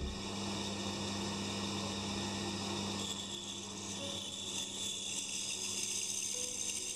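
Pégas scroll band saw running with a steady hum while its narrow blade cuts through a thick wooden block; the sawing hiss gets louder about three seconds in.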